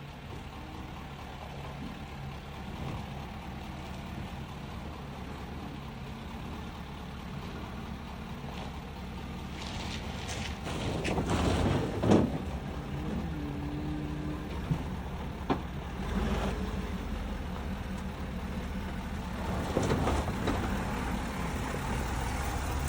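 A heavy 4x4 pickup's engine running steadily at low speed. It swells louder for a few seconds around the middle and again near the end, with a few sharp knocks.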